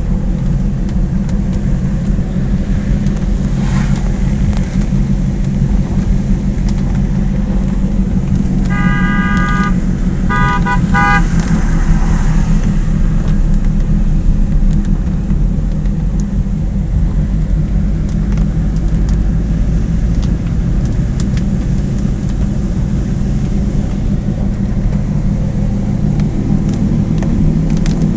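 A motor vehicle runs steadily with a low rumble and road noise. A horn gives a string of short honks about nine to eleven seconds in.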